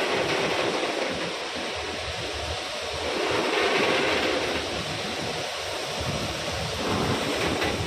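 A steady rushing hiss beside freight-train wagons, rising and falling slightly in level.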